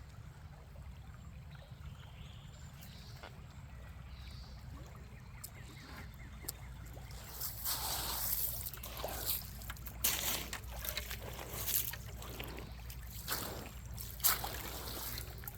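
Water sloshing and splashing in a series of irregular bursts starting about halfway through, as bait is caught in the water; before that only a faint steady low rumble.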